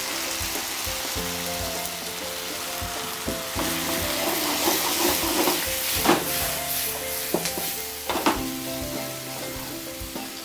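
Chopped tomatoes and shallots sizzling as they fry in hot oil in a pan, stirred with a wooden spatula. There are two brief scrapes a little after halfway through.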